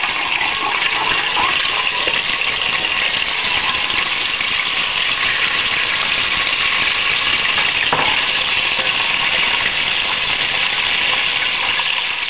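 Ginger-garlic paste sizzling in hot oil in a metal pot while being stirred with a metal slotted spoon: a steady, loud frying hiss, with one sharp tap about eight seconds in.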